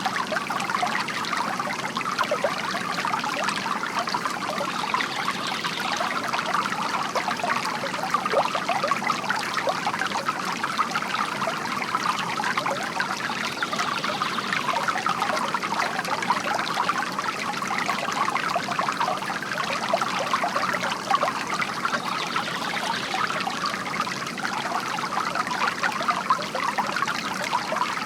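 Water trickling steadily from a bamboo fountain into its basin.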